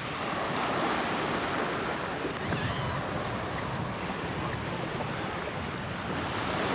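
Steady wash of sea waves, with wind buffeting the camcorder microphone.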